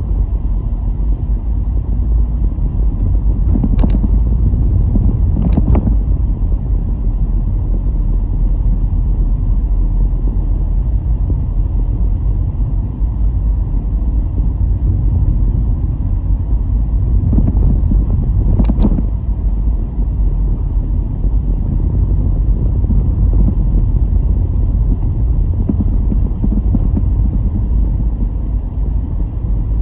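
Car driving along a road: a steady low rumble of tyres and engine, with a few brief knocks, about 4, 6 and 19 seconds in.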